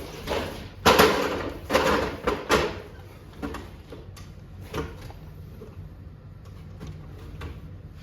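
Clattering knocks and scrapes from handling hardware, the loudest about one and two seconds in, followed by a few lighter clicks.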